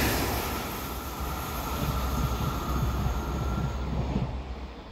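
Double-deck passenger train that has just passed, its running noise fading as it moves away, with a faint steady whine that stops about four seconds in.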